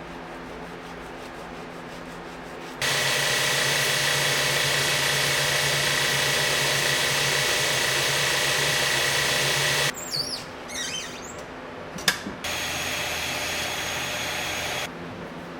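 A power tool runs steadily with a constant high whine, starting and stopping abruptly. It is followed by a few seconds of scraping with one sharp click, then a second, quieter stretch of the tool running.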